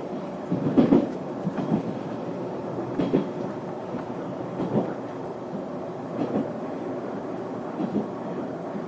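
Running noise inside the cabin of a JR 383 series 'Shinano' limited express train: a steady rumble, with wheel knocks over rail joints at uneven intervals, often in pairs.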